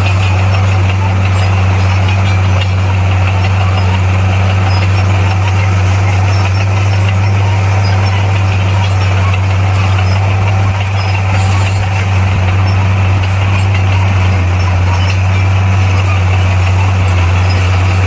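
Bulldozer's heavy diesel engine running at a steady speed, a constant low hum with no change in pitch.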